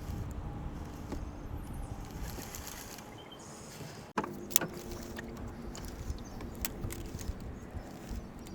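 Fishing reel cranked in a steady retrieve, a soft mechanical whirring, with wind rumbling on the microphone. The sound breaks off abruptly about four seconds in, then picks up again with several sharp clicks and knocks of tackle or the kayak.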